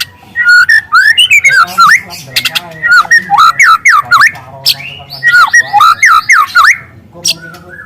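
Young white-rumped shama (murai batu) singing loud, rapid volleys of whistled notes, sweeping quickly up and down in pitch in a canary-like run. Two dense bursts are broken by a short pause about four seconds in, and the song thins out near the end.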